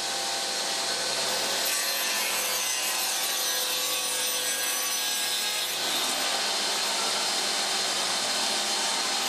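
Sliding table saw's circular blade cutting through wood, a steady sawing noise with a faint motor whine, that cuts off suddenly at the end.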